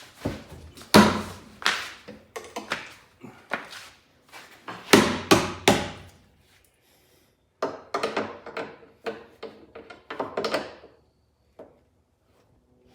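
A series of hard knocks and thunks: loud single blows about a second in and again around five seconds, then a quicker run of lighter knocks.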